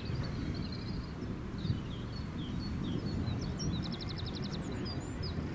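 Small birds chirping and trilling, with one quick run of about ten even notes near the middle, over a steady low rumble.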